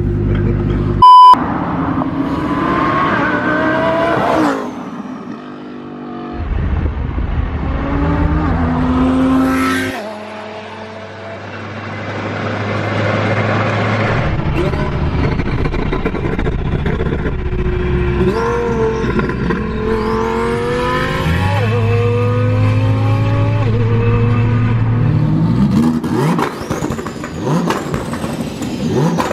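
Twin-turbo Lamborghini Huracán Performante's V10 accelerating hard through several gears, the revs climbing and then dropping sharply at each shift, with a short hissing whoosh at some of the lift-offs. A short, loud beep sounds about a second in.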